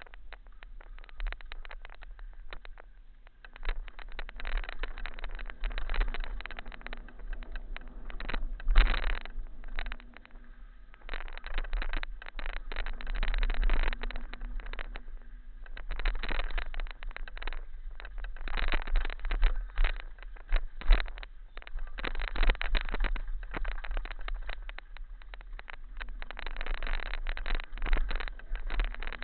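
Wind buffeting and rattling on a moving camera's microphone, surging and easing every second or two over a constant low rumble.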